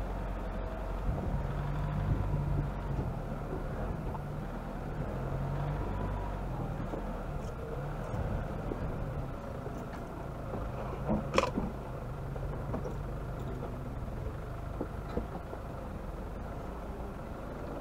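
Off-road vehicle's engine running at low revs as it crawls down a rocky track, its note stepping up and down, with a sharp knock about eleven seconds in.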